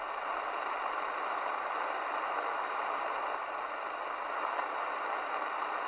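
Steady static hiss from a Midland Alan 8001 CB radio receiver with no station transmitting: the open channel's band noise.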